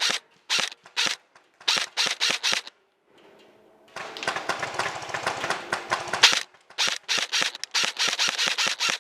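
Airsoft guns firing, sharp cracks in rapid volleys with a short lull about three seconds in, then steady fast shooting at about five shots a second.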